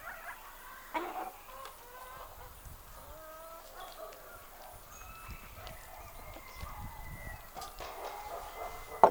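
Chickens clucking and calling on and off, with one sharp knock near the end.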